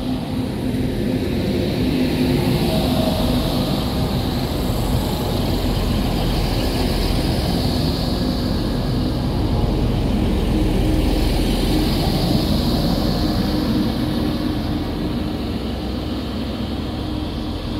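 Class 185 diesel multiple unit moving along the platform close by: a steady hum from its Cummins diesel engines under the rush of wheel and rail noise. It swells over the first couple of seconds and eases slightly near the end.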